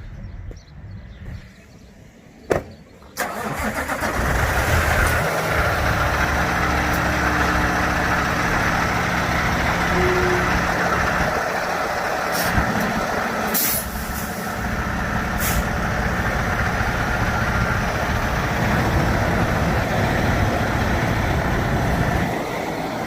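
Semi-truck's diesel engine running steadily. It comes in suddenly about three seconds in, just after a single sharp knock. A few short sharp sounds follow partway through.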